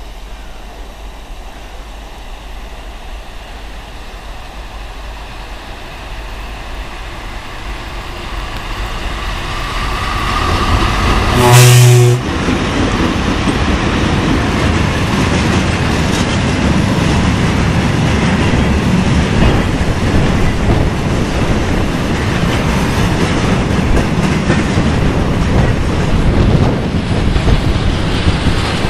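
VL80K electric locomotive approaching with a freight train, its noise rising steadily until a short typhon horn blast about a third of the way in, the loudest sound. Then the train of tank cars rolls past close by with a steady rumble and wheel clatter.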